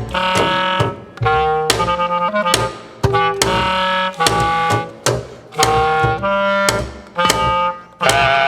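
Clarinet and double bass playing experimental contemporary music: a string of short clarinet notes, each sharply attacked and separated by brief gaps at an uneven pace of about one to two a second, over a low held tone.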